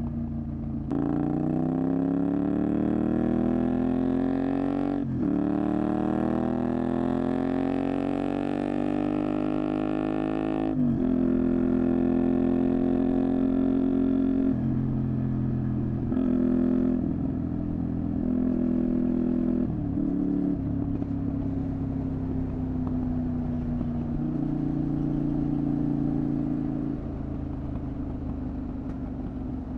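Honda VTR250's V-twin engine and Moriwaki exhaust under way. It accelerates with rising pitch, shifts up about five seconds in and pulls again. Around eleven seconds in the pitch drops and it runs at a steady cruise with small throttle changes, easing off near the end.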